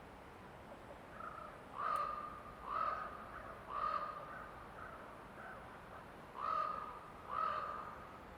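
A bird calling five times, three calls about a second apart, then a pause, then two more.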